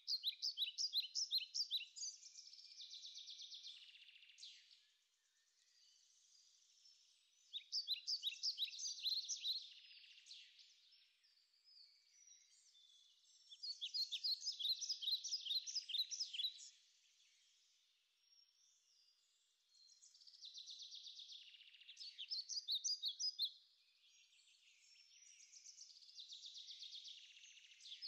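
A songbird singing outdoors: phrases of rapid high notes, each two to three seconds long, repeated about every six seconds.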